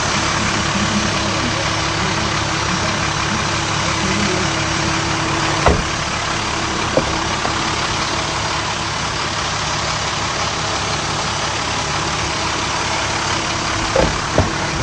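International truck's MaxxForce 10 turbo diesel running steadily at idle, with a few short sharp clicks about six and seven seconds in and twice near the end.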